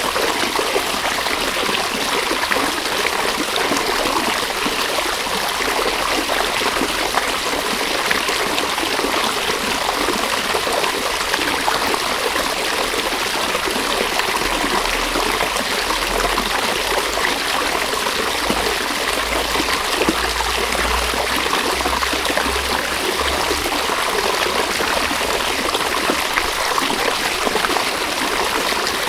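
River water flowing steadily over stones, an even rushing and trickling. A faint low rumble sits under it for several seconds midway.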